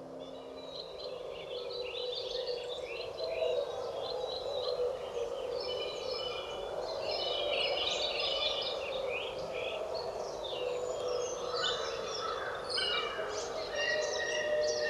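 A dense chorus of many birds singing at once, overlapping chirps and trills, over a steady lower drone that grows louder near the end.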